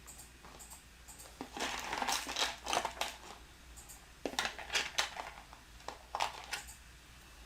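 Small plastic building bricks clattering and rattling as hands rummage through a pile of pieces, in three bursts of a second or two each.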